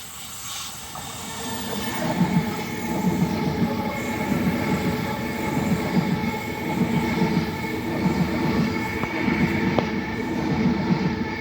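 Sydney Trains Oscar (H-set) electric intercity train running past the platform. Its wheels rumble with a regular clatter about once a second, over a steady whine, and the sound builds up over the first two seconds as the train arrives.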